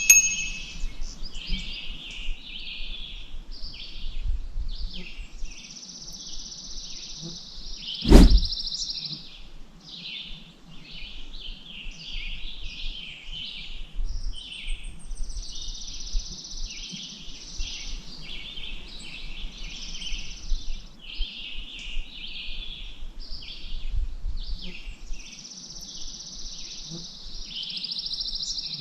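Many small songbirds chirping and trilling over one another without a break, with some long buzzy trills, over a low steady background noise. A single sharp knock sounds about eight seconds in.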